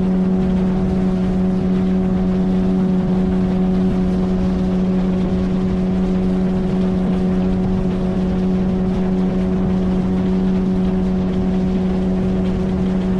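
9.8 hp outboard motor on an inflatable PVC boat running at a steady speed, its pitch holding even, with water and wind noise beneath.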